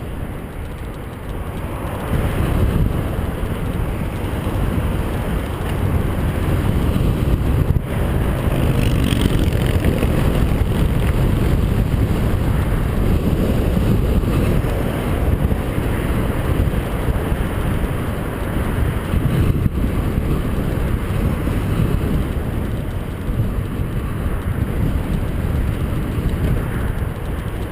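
Wind rushing over a GoPro camera's microphone while riding a bicycle: a loud, steady low rush that swells about two seconds in.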